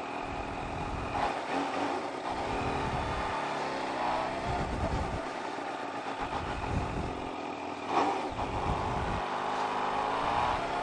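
Supercharged inline-four engine of a 2019 Kawasaki Ninja H2 motorcycle running at low speed as the bike rolls along, its pitch shifting slightly. Wind rumbles on the microphone now and then.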